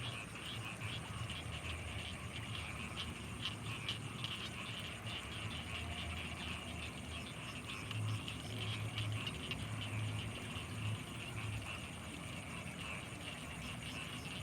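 Night chorus of frogs and insects in rice fields: a steady mass of rapid high chirps and ticks, with a run of low pulsing calls for a few seconds past the middle.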